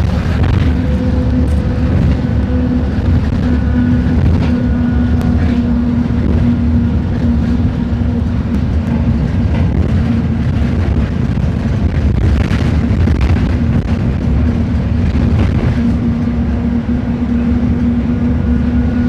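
Mercedes-Benz OF-1721 BlueTec 5 bus diesel engine running, a loud low rumble with a steady drone that eases slightly mid-way and comes back.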